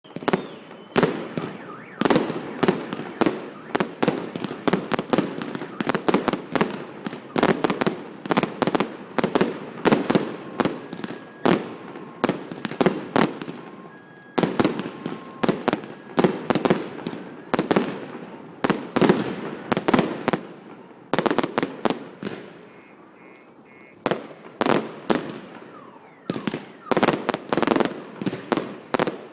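Fireworks going off in rapid bangs, two or three a second, each with a short echoing tail. The bangs ease into a brief lull about three-quarters of the way through, then pick up again.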